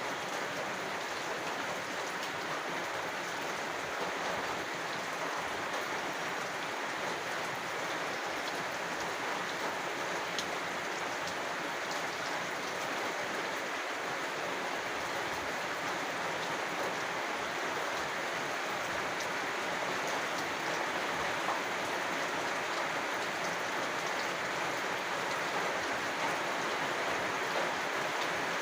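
Rain falling steadily: an even hiss of many drops.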